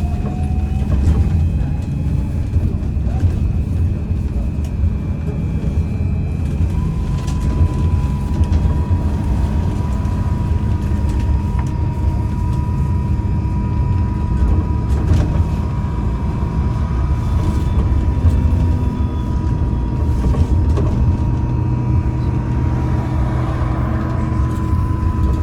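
Interior sound of a MAZ-203T70 trolleybus under way: steady road and tyre rumble with the electric whine of the traction drive. About seven seconds in, a new high whine comes in and holds steady while faint rattles and clicks sound through the cabin.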